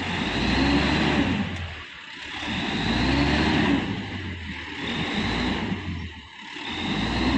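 Dump truck engine revved hard over and over, its pitch and loudness rising and falling in surges about every two seconds, as the truck struggles stuck in soft sand.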